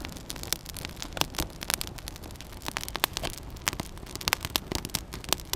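Burning birch bark and small twigs crackling as the fire catches, with many irregular sharp pops and snaps over a steady hiss.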